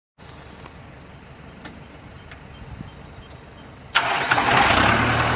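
Kubota M8540D tractor's diesel engine starting about four seconds in, catching at once and settling into a steady idle. Before that there is only faint background with a few light clicks.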